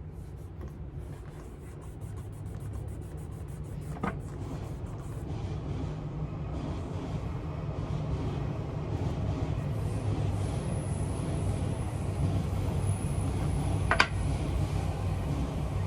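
Leather shoe being buffed by hand: a steady rubbing that slowly grows louder, with two sharp knocks, about four seconds in and near the end.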